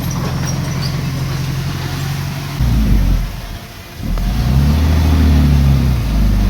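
Heavy diesel engine of earthmoving equipment running steadily. About two and a half seconds in, the sound changes abruptly to a louder, deeper engine that dips briefly, then revs up and back down.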